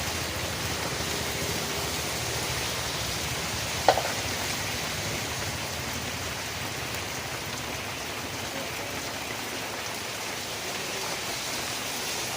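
Steady rain falling, an even hiss of drops. About four seconds in there is a single sharp tap, the loudest moment.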